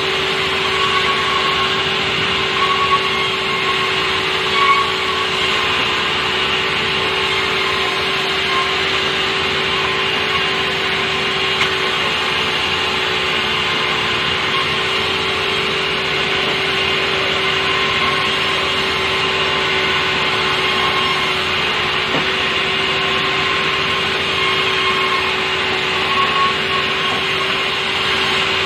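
Sawmill saw running steadily, cutting softwood, with a constant hum under the noise of the cut.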